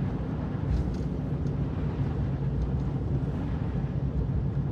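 Steady low rumble of a four-wheel-drive vehicle's engine and tyres on a snow-covered road, heard from inside the cabin.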